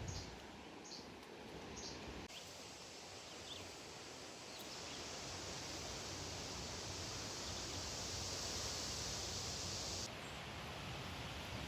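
Outdoor field ambience with a low rumble of wind and rustling. A few short high chirps come in the first two seconds, then a steady high-pitched hiss, like an insect chorus, starts about five seconds in and cuts off abruptly near the end.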